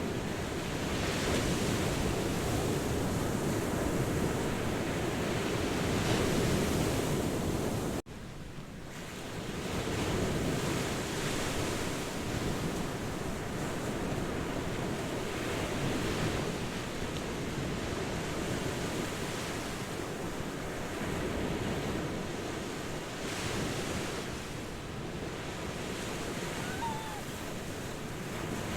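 Ocean surf: waves breaking and washing in a continuous hiss that swells and eases every few seconds, with a sudden brief drop in level about eight seconds in.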